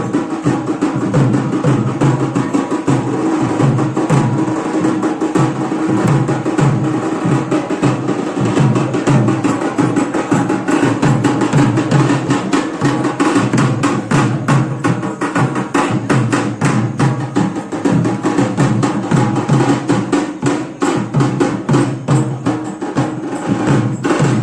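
Music of fast, dense drumming: rapid sharp strikes without a break, over a steady held note.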